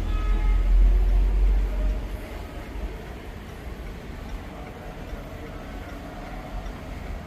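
Range Rover SVR's 5.0-litre supercharged V8 running with a deep low rumble. It is loudest for the first two seconds, then settles to a steadier, quieter drone.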